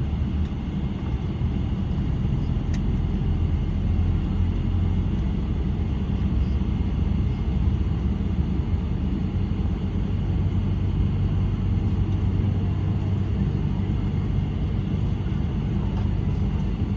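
Steady low rumble inside the cabin of a Boeing 777-300 on the ground, its Rolls-Royce Trent 800 engines running with no spool-up. A faint click about three seconds in.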